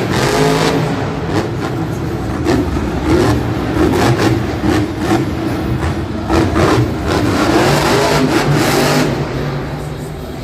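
Monster truck's supercharged V8 revving up and down over and over, with sharp cracks throughout.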